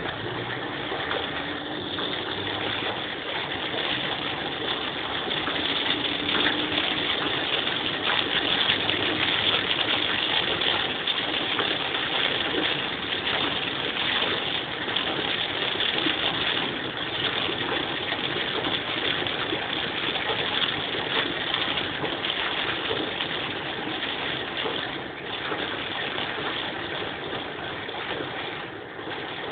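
Steady hiss of heavy rain and tyres running on a flooded road, heard from inside a moving car, swelling over the first several seconds and then holding.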